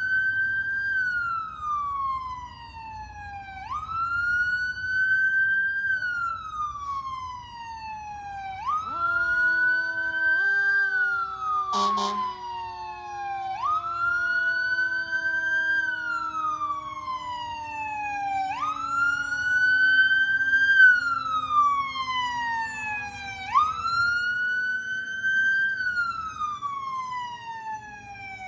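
Vehicle siren wailing in slow cycles, about one every five seconds, each rising quickly and then falling away slowly. About nine seconds in, a second, lower tone starts and slides slowly downward under the wail, and a sharp click comes a few seconds later.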